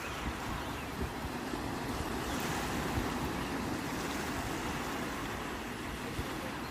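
Sea surf washing steadily on the shore, with a wave swelling and breaking more loudly about two seconds in.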